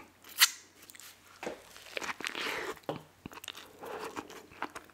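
Close-miked chewing of a mouthful of crispy fried chicken sandwich: wet mouth smacks and crunches in quick irregular clicks, with one sharp crunch about half a second in.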